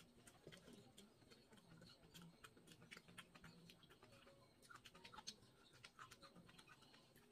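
Faint, close eating sounds: quiet chewing with many small mouth clicks and smacks scattered throughout.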